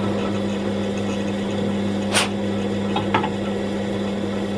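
Machine tool's electric motor running with a steady hum. A sharp click comes about two seconds in, and two lighter clicks follow about a second later.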